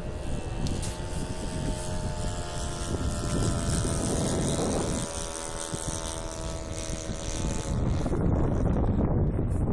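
Engine and propeller of a radio-controlled Cessna 177 Cardinal model plane droning in flight, its pitch shifting slightly. It fades out about eight seconds in, leaving heavy wind noise on the microphone.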